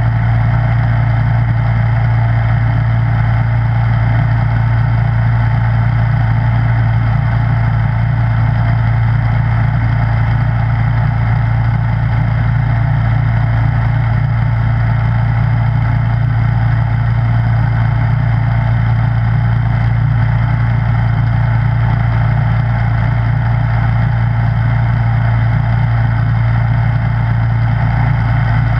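Snowblower engine running steadily at constant speed, an even low hum with no changes in pitch or load.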